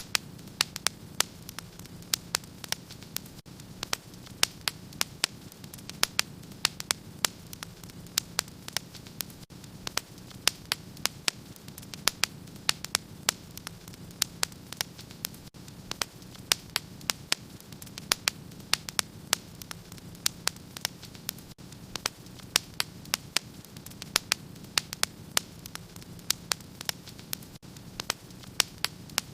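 Wood fire in a fireplace crackling: many sharp, irregular pops and snaps over a steady low rush of the flames.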